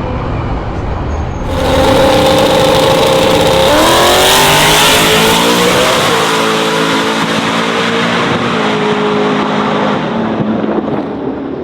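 Twin-turbo drag pickup accelerating hard. The engine sound jumps up about a second and a half in, climbs in pitch, then drops in steps as it shifts up through the gears.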